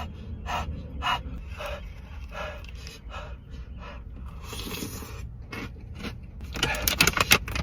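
A person panting hard from the heat of a Carolina Reaper–spiced chicken tender, with short sharp breaths about every half second. Near the end comes a quicker run of sharp clicking sounds.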